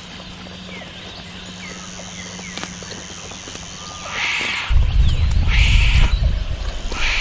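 Wombat calling in repeated harsh, breathy grunts with a low rumble, roughly one every second and a half, starting about four seconds in. Before that there is steady outdoor ambience of insects and small bird chirps.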